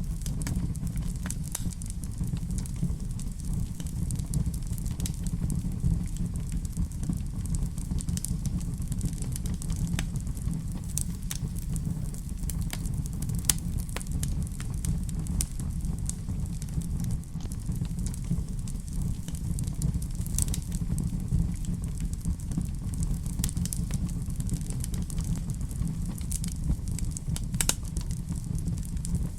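Wood fire crackling in a fireplace: many sharp irregular pops and snaps over a steady low rumble.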